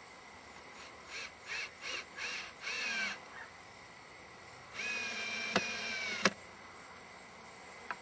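A bird calling: five short calls in quick succession, the last a little longer, then about two seconds later one long call that falls slightly in pitch. Two sharp clicks sound during the long call, and another comes near the end.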